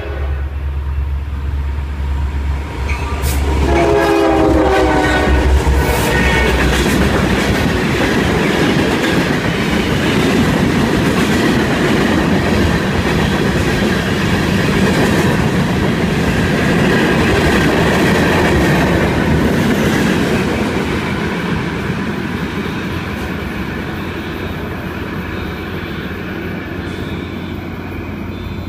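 Union Pacific freight train led by GP60 diesel locomotives. Its horn sounds a chord about three seconds in, for around three seconds. Then the locomotives and a long string of covered hopper cars roll past close by with a rumble and clatter of wheels, which eases off after about twenty seconds.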